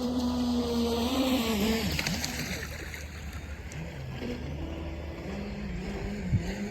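Brushless electric RC speedboat running on a 4S battery: a motor whine rises near the start, falls away about two seconds in, then comes back steady near the end, over a hiss of water off the hull.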